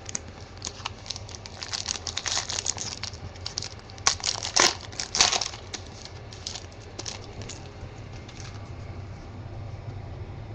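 Crinkling and rustling of trading-card packaging and cards being handled. It comes as a run of quick crackles, with the loudest bursts near the middle, then thins out toward the end.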